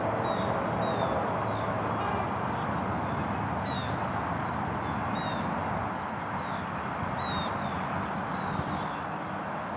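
A bird calling again and again in short, high, falling notes over a steady rushing background.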